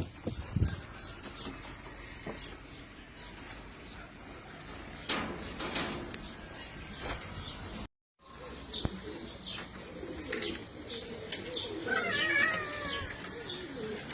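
Domestic pigeons moving about with wing flaps and short rustles and clicks, and some cooing and calling toward the end.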